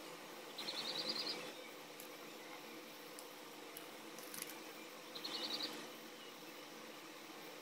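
A small bird chirping twice, each a short rapid trill of high notes, about a second in and again about five seconds in, over a faint steady hum.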